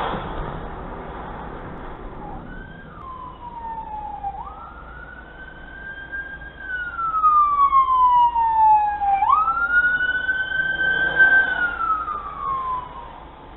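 Emergency vehicle siren wailing, its pitch sweeping up quickly and falling slowly, about three cycles, growing louder from about halfway through over a steady low road hum.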